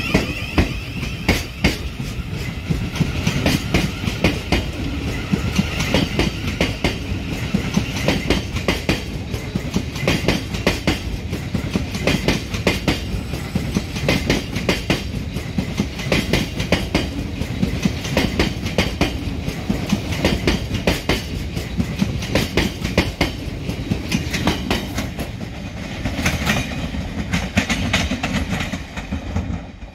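Electric multiple unit train pulling out of the platform, its wheels clacking over rail joints and pointwork in a long run of clicks over a steady rumble.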